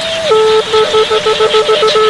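Snaeng, the Khmer free-reed horn, playing one reedy line: a held note that drops lower about a third of the way in, then a rapid warbling trill of quick up-and-down notes. A steady high-pitched hiss runs behind it.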